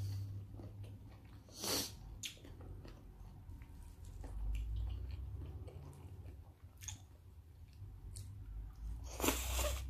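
Close-up mouth sounds of chewing raw salmon sashimi: soft wet smacks and clicks. There is a louder wet burst about two seconds in and a longer one near the end, as another bite of greens goes into the mouth.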